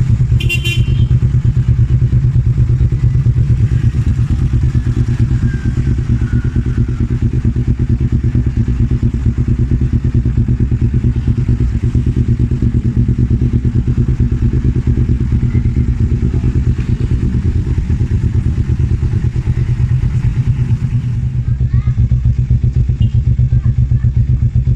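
Kawasaki Z250 parallel-twin engine running at a steady idle through an aftermarket Arrow exhaust, with no revving. A brief click comes just after the start.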